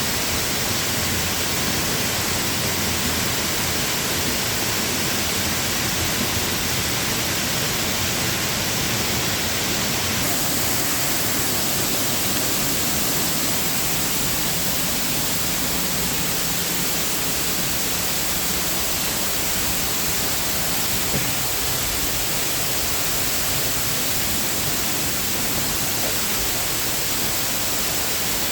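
Steady rushing roar of a large waterfall, an even hiss spread from low to high pitches with no let-up.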